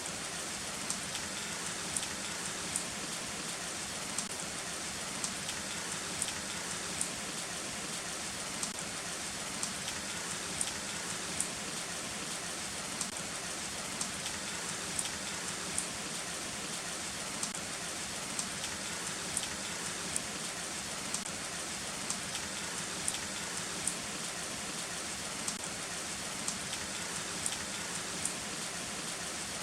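Heavy rain falling steadily: an even hiss with frequent sharp ticks of individual drops striking close by. There is no thunder.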